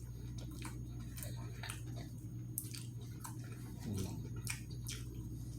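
Close-miked chewing of a sandwich: irregular wet smacks and mouth clicks, with a somewhat louder bite or smack about four seconds in, over a steady low hum.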